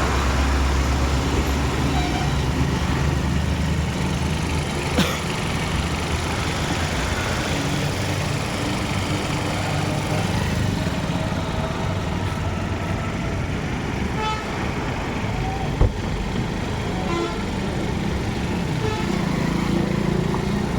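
Motor vehicles running, with car horns honking now and then and voices in the background. There is a sharp knock about 16 seconds in.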